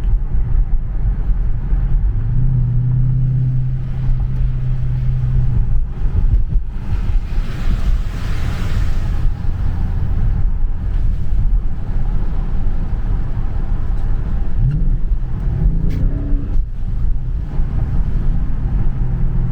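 A 2017 Dodge Charger Scat Pack's 392 Hemi V8 (6.4 litres) runs at a steady drone while driving. There is a brief rise in engine pitch about fifteen seconds in.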